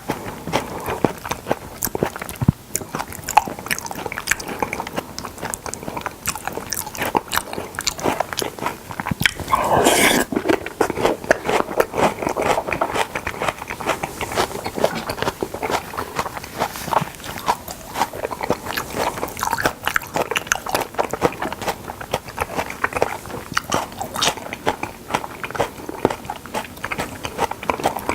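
Close-miked chewing and biting of salmon, with a steady run of wet smacks and clicks of the mouth. About ten seconds in comes one longer, louder sound that falls in pitch.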